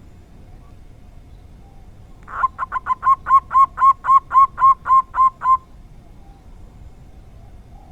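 Zebra dove (perkutut) calling: a quick run of about a dozen short cooing notes, about four a second, lasting some three seconds and starting a couple of seconds in, the first few softer.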